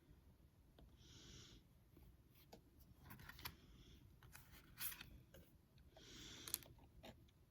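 Faint handling of Pokémon trading cards, almost silent: a few light clicks and two short, soft rustling slides, about a second in and again about six seconds in.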